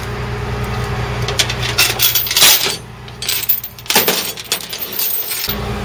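Metal clinking and clattering, with scraping noises that are loudest about two and a half seconds in, over a tow truck's idling engine; the engine hum drops away for a couple of seconds and then returns abruptly near the end.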